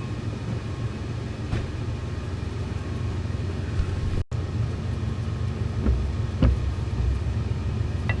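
Old Monarch lathe running steadily with a low hum, with a few light knocks spread through. The sound cuts out for an instant about halfway through.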